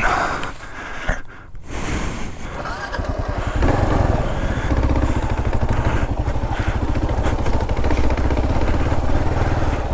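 Kawasaki KLR650's single-cylinder engine, fairly quiet for the first few seconds, then running steadily under throttle from about three and a half seconds in as the bike rides along.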